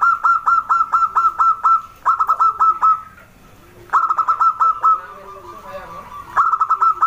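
Zebra dove (perkutut) calling: bursts of rapid staccato cooing notes, about five or six a second, repeated four times with short pauses. Fainter, lower coos sound between the bursts.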